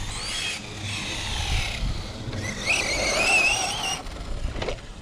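Electric motor and drivetrain of a 1/8-scale RC monster truck whining, the pitch rising and falling as the throttle is worked. A short knock comes near the end.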